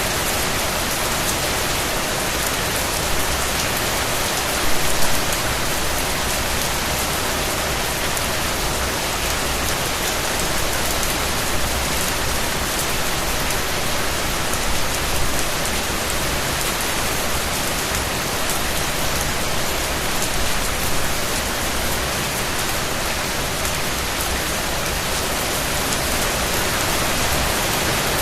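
Steady rain falling on a surface, a dense even patter, with a few slightly louder moments of heavier drops.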